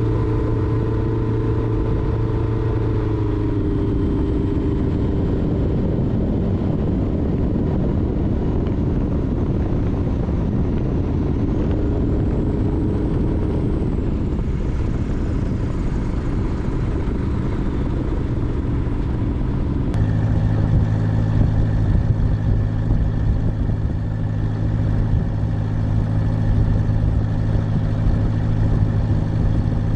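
Light aircraft piston engine and propeller running steadily in flight. About twenty seconds in, the engine tone changes abruptly to a deeper, steadier hum.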